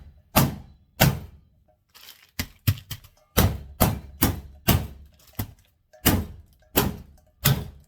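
Chicken breasts being pounded flat to an even thickness with an improvised tool in place of a meat mallet: about fifteen sharp thuds, some in quick runs of about three a second, with short pauses between runs.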